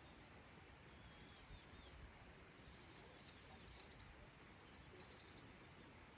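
Near silence: faint countryside evening ambience, a steady soft hiss with a few brief, faint high bird chirps and whistles.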